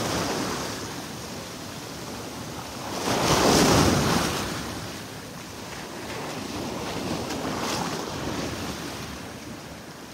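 Small Gulf of Mexico waves breaking and washing up the beach, one wave swelling louder about three seconds in, with wind buffeting the microphone.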